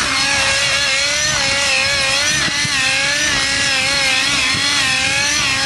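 Nitro RC helicopter's glow engine with a GP-Exhaust tuned pipe running in flight, its pitch wavering up and down as the throttle and load change.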